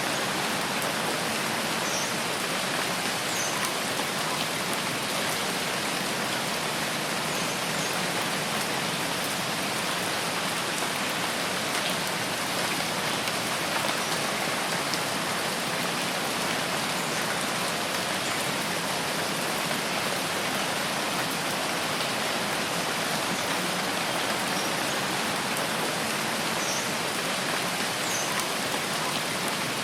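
Steady rain falling, an even, unbroken hiss with no let-up, with a few faint, short high-pitched sounds now and then.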